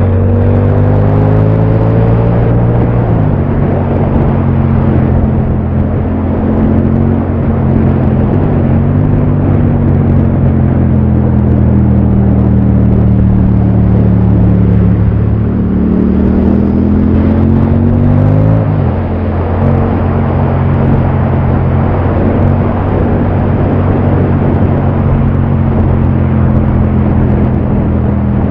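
Yamaha MT-07 motorcycle's parallel-twin engine running under way, with road and wind noise. The revs climb and then drop sharply twice, about three seconds in and again about two-thirds through, as it accelerates and shifts up; in between it eases off, and near the end it holds a steady cruise.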